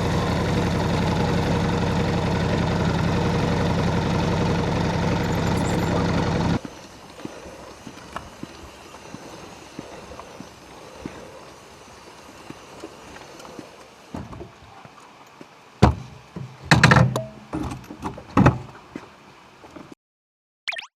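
Ducati Scrambler 1100's twin-cylinder engine idling steadily, then stopping abruptly about six and a half seconds in. After a quiet stretch come a few sharp clunks and rattles near the end.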